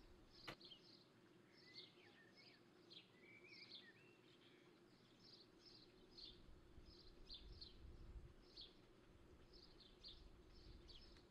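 Faint birdsong: many short, quick falling chirps repeating throughout over a low steady hum, with a single sharp click about half a second in.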